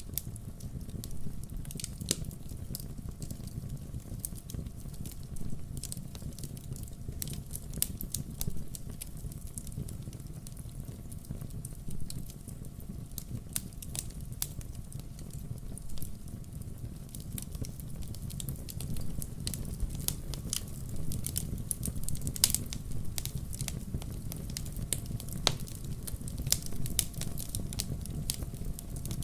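Wood fire burning, with frequent sharp crackles and pops over a steady low rumble of flame.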